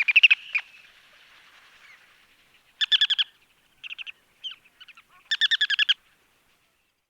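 Ruddy turnstone calling: rapid chattering runs of short, sharp, high notes, in several bursts with gaps between them. The longest run comes near the end, with a few single notes just before it.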